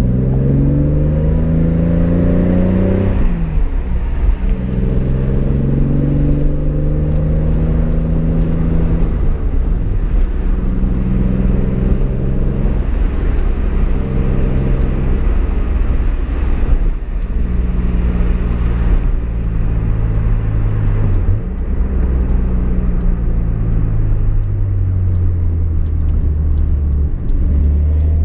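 Fourth-generation Toyota Supra's straight-six engine heard from inside the cabin while driving: the engine note climbs for the first three seconds, then drops and settles into a steady cruise, dipping briefly every five or six seconds, over a low road rumble.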